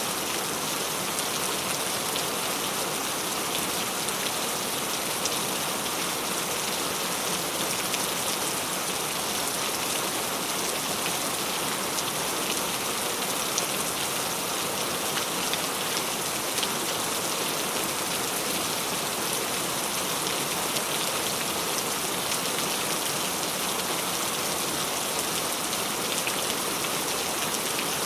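Steady, even rainfall with a dense hiss and scattered individual drop ticks.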